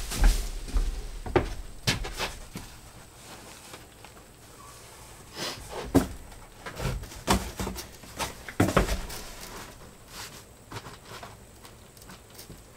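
Irregular knocks and rustling from insulation being handled and pushed into wall cavities, with a quieter stretch a few seconds in.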